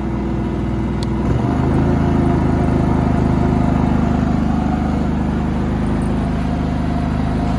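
Generac iQ3500 inverter generator running under the load of a blower fan on high. About a second and a half in, its engine speeds up to a higher steady speed as economy mode is switched off.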